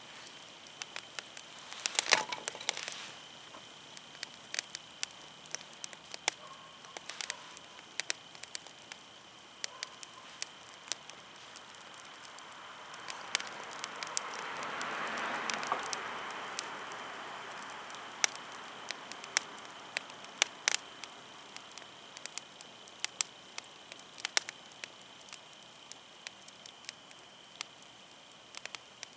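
Wood fire crackling and popping with irregular sharp snaps, a louder cluster of pops about two seconds in. About halfway through, a soft rushing sound swells and fades over a few seconds.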